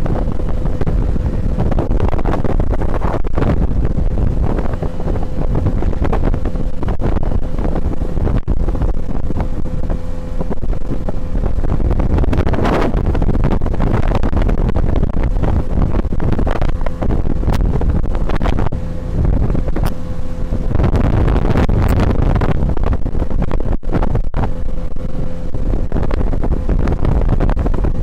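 Tohatsu 9.8 outboard motor running at a steady pitch, driving an inflatable boat under way, with wind buffeting the microphone.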